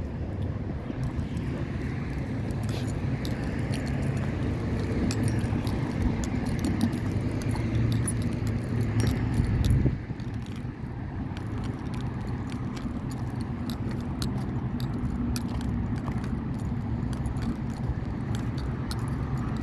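Steady low outdoor rumble with many small clicks and jingles through it; the rumble drops suddenly about ten seconds in.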